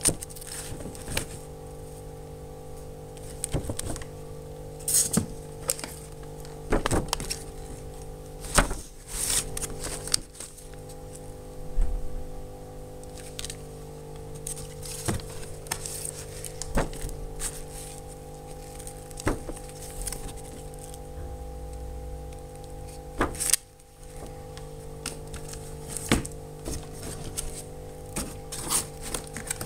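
Irregular knocks, clicks and light thunks of items being handled and set down, over a steady humming drone.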